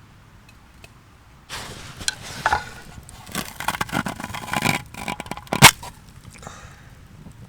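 Camp gear being handled: a few seconds of rustling and scraping with scattered clicks, ending with one sharp knock.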